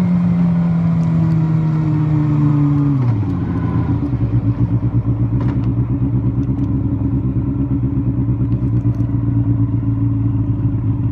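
Kawasaki Balius water-cooled inline-four 250 cc engine running at steady high revs. About three seconds in the pitch falls quickly, and the engine settles into a lower, steady, pulsing run.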